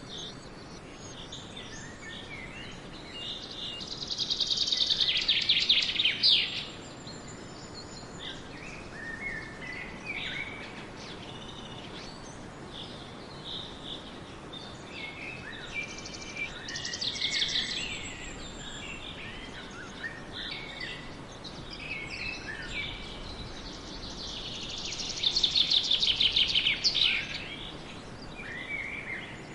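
Songbirds singing: three loud, rapid trilling songs, about 4, 16 and 25 seconds in, each lasting a couple of seconds, with scattered short chirps between them over a steady outdoor background hiss.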